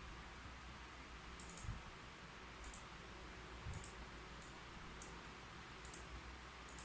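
Scattered keyboard key clicks, about seven short sharp taps at irregular intervals rather than a steady typing run, over a faint steady hiss.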